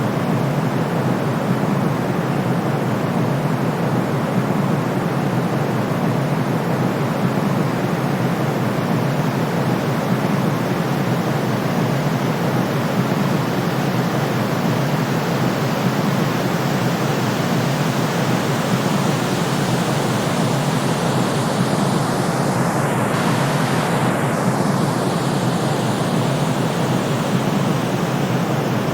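Steady, even hiss of a white-noise sleep track, weighted toward the low and middle range like pink noise. About three-quarters of the way through, a faint slow sweep passes through the upper hiss.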